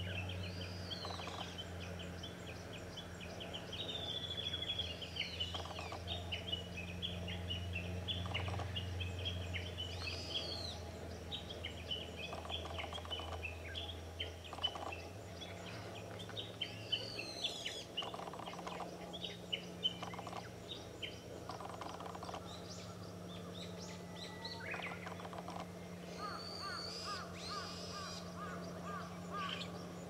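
Wild birds chirping and calling over and over: dense short high chirps with a few sliding whistled notes, over a steady low hum.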